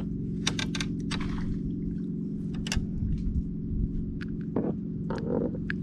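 Steady low motor hum with scattered sharp clicks and taps on top.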